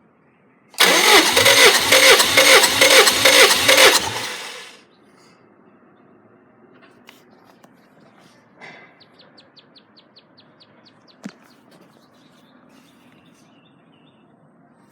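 Subaru EJ253 2.5L flat-four engine turned over by its starter for about four seconds, chugging in an even rhythm without firing, then stopping: the kind of cranking done for a compression test. A quick run of faint clicks follows later.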